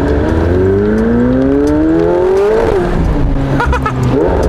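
McLaren 720S Spider's twin-turbo V8 under hard acceleration, heard from the open cockpit. The engine note climbs steadily for about two and a half seconds, drops sharply at an upshift, then starts climbing again near the end.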